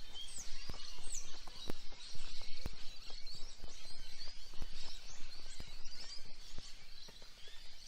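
Small birds chirping over steady outdoor background noise, with scattered short clicks and knocks.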